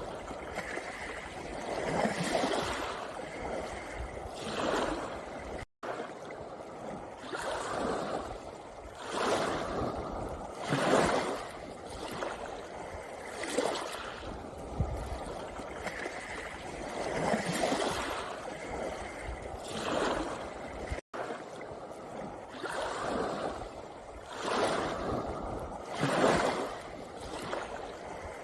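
Small sea waves washing in and drawing back over a pebble beach, one surge every two to three seconds. The sound cuts out for an instant twice.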